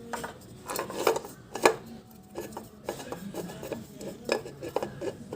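Light metal clinks and scraping as a new oil filter is handled and worked into place on the engine, with a sharp click about a second and a half in.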